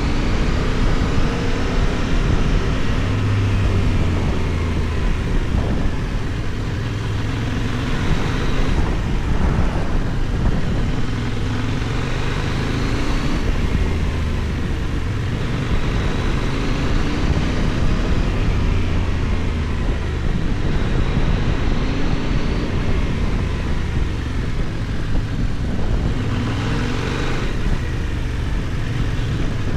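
Benelli Tornado 550's 554 cc parallel-twin engine with a 270° crank, pulling hard on the road: its pitch climbs several times and drops back at each gear change.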